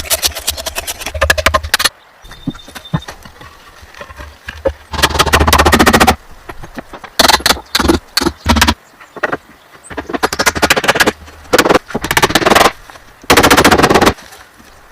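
Bursts of very rapid clattering impacts, each lasting about a second, separated by short pauses.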